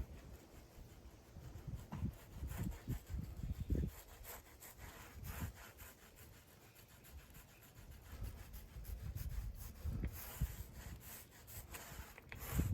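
Faint, irregular rubbing and scraping with scattered light knocks: handling noise from hands-on work.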